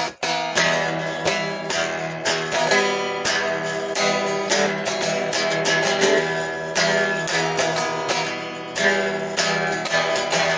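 Guitar strumming chords steadily, with a momentary break just after the start; no singing.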